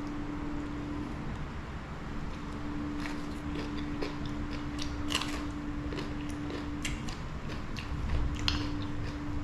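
A person chewing and crunching a mouthful of green papaya salad (som tam) close to the microphone. Scattered wet clicks and crunches come thicker from about three seconds in.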